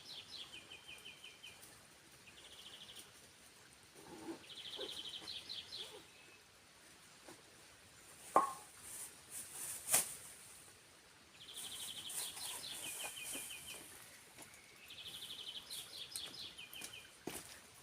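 A songbird repeating a short high song, a fast trill followed by a string of separate notes, every few seconds over a faint steady rush of water. Two sharp clicks come near the middle, the loudest sounds.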